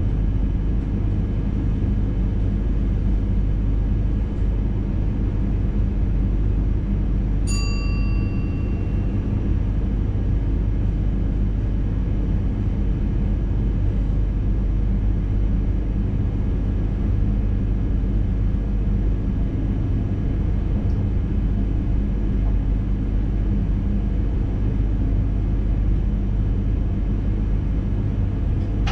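Intercity train running along the line, heard from the driver's cab: a steady low rumble with faint constant tones above it. About seven and a half seconds in, a single bell-like chime rings and dies away over a second or so.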